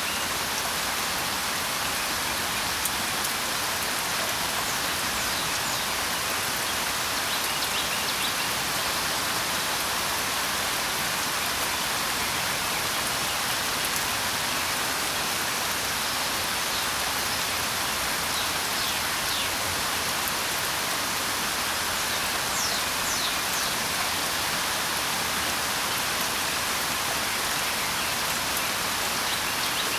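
Steady, even rain falling, with a few faint, short bird chirps now and then.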